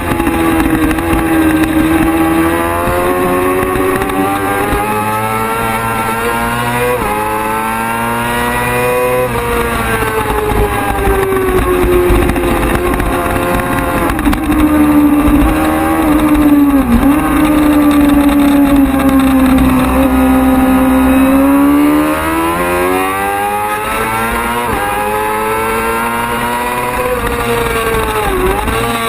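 Racing motorcycle engine at high revs, its pitch climbing under acceleration, dropping sharply at several gear changes, and falling away for long stretches between.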